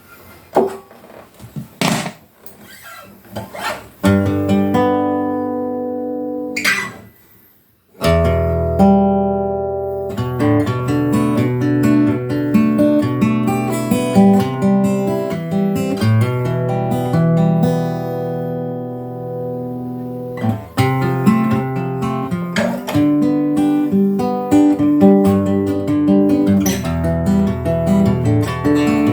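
Seagull acoustic guitar being played: a few sharp knocks and a chord left to ring, a brief drop-out about eight seconds in, then steady, continuous strumming of chords.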